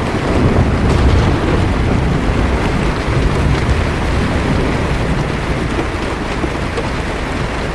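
Heavy rain falling steadily on a car's roof and windshield, heard from inside the car, with a low rumble of thunder that swells about a second in and fades over the next few seconds.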